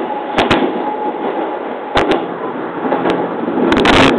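JR East 209 series electric train running along the track, heard from inside the front cab: a steady rolling rush broken by sharp paired clicks as the wheels cross rail joints. The noise grows louder and denser near the end.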